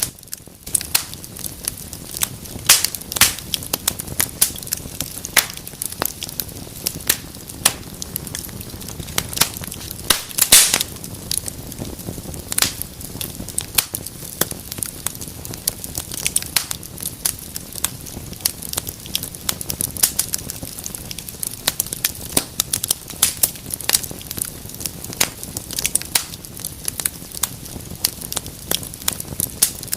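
Wood fire in a fireplace crackling, with frequent sharp pops and snaps over a low steady rumble of the flames; one louder pop comes about ten and a half seconds in.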